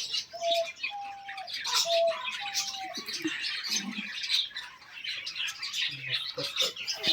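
A flock of small caged birds chirping continuously. Several short, steady, lower-pitched calls come in the first three seconds.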